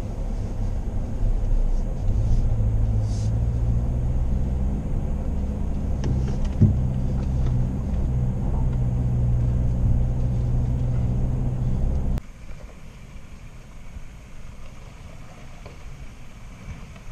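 Suzuki Jimny's engine droning steadily in low gear, heard from inside the cabin, with one sharp knock about six and a half seconds in. About twelve seconds in it cuts off suddenly to a much quieter outdoor sound of a distant 4x4 on a stony track.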